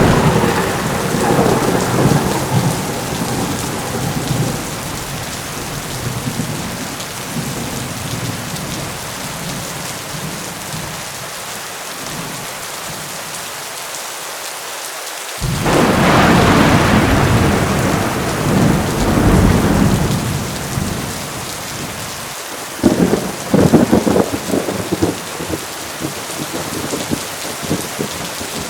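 Heavy rain pouring steadily through a thunderstorm. A thunderclap at the start rolls off over several seconds. About halfway through, another clap breaks suddenly into a long rumble, followed by a few sharp crackling peals near the end.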